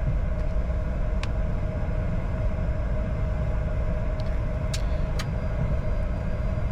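Cockpit noise of a Bombardier Challenger 605 rolling out at low speed after landing: a steady low rumble with a constant hum. A sharp click about a second in and two more close together near five seconds.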